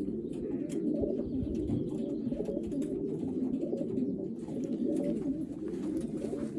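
Racing pigeons cooing together in a loft, a steady, dense low cooing.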